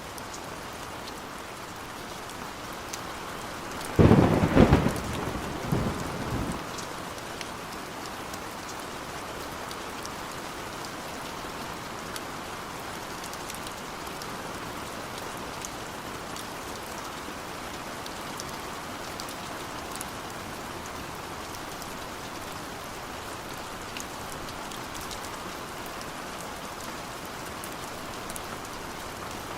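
Steady heavy rainfall with a loud thunderclap about four seconds in that rumbles off over the next two seconds.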